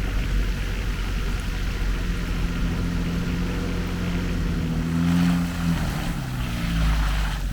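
A vehicle engine running with road noise, a steady low rumble throughout. The engine's pitch rises and shifts in the middle, as with a change in speed.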